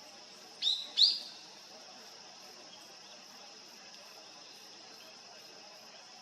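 Two short, sharp, high calls close together about a second in, each dropping slightly in pitch, typical of a female Daurian redstart's call, over a steady faint high hiss of background.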